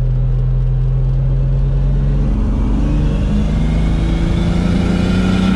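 BMW E30's engine and road noise heard from inside the sound-deadened cabin at highway speed. The engine holds a steady drone for about two seconds, then the revs climb as the car accelerates, with a higher whine rising alongside near the end.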